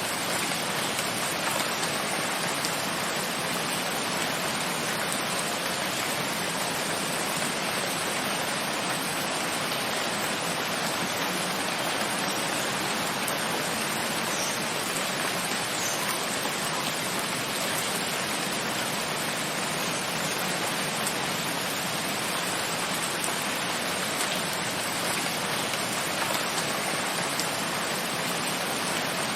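Steady rain falling, an even, continuous hiss with no breaks or single drops standing out.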